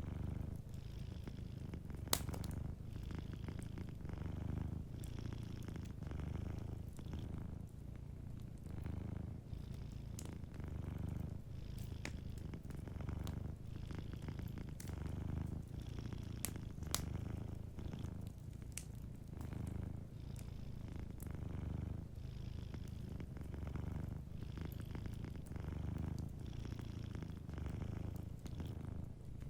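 Domestic cat purring steadily, a low rumble that swells and eases about every two seconds, over a wood fire giving occasional sharp crackles and pops.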